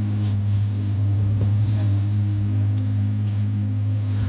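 A steady low hum with a few fainter overtones, unchanging throughout.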